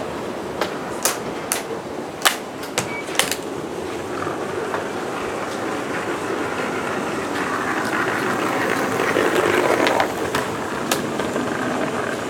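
A model train running on the layout's track, with several sharp clicks in the first few seconds, then a steady rolling sound that swells past the middle and eases off near the end.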